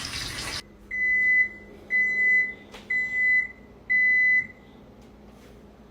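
Running water cuts off abruptly, then an electronic beeper sounds four even, high-pitched beeps about a second apart, each about half a second long, like an appliance signalling. A faint click falls between the second and third beep.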